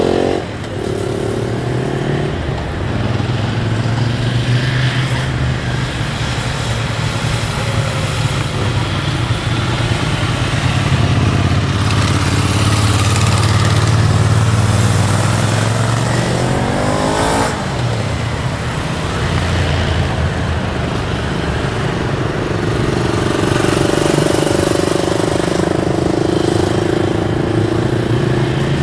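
Motorcycle engines running at low speed with a steady hum. About two-thirds of the way in, one engine revs up quickly in a rising whine, then drops back.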